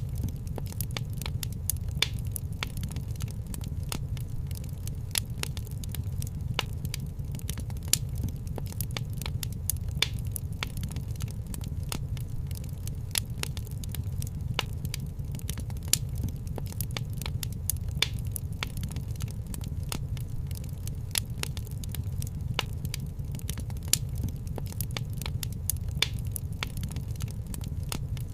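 Fireplace fire crackling: frequent sharp pops and snaps over a steady low rumble, with a louder pop about every two seconds.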